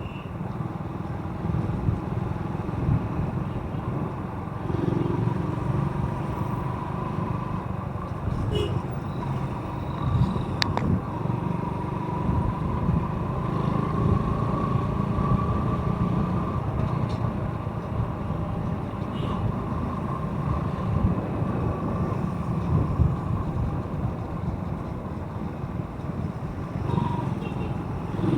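Motorcycle engine running steadily while riding along a road, with low rumbling road and wind noise.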